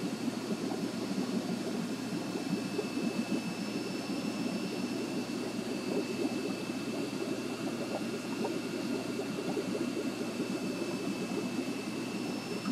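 Aquarium equipment running, most likely the filter and air pump: a steady low churning of moving water and air with a faint steady high-pitched whine.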